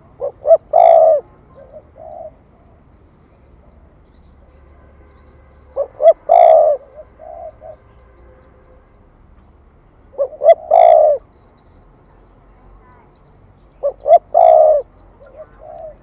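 Spotted dove cooing: four phrases about four seconds apart, each two short notes, then a long, louder coo and a softer trailing note.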